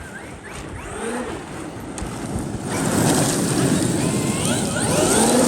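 Traxxas XRT radio-controlled truck driving, its electric motor whining in short rising glides over a loud rushing noise that builds up about three seconds in.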